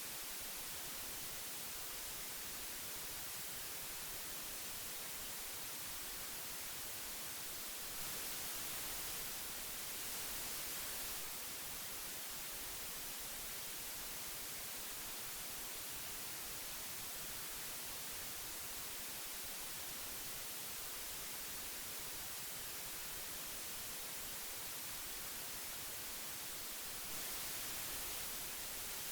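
Old analogue tape hiss: a steady, even hiss strongest in the high frequencies, lifting slightly in level for a few seconds about eight seconds in and again near the end.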